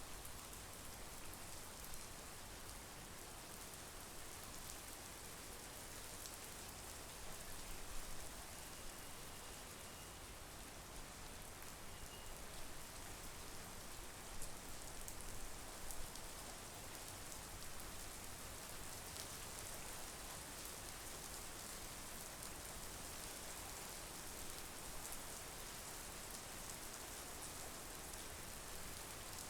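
Steady monsoon rain falling on the lake and surrounding trees, an even hiss with scattered individual drops ticking, now and then a little louder.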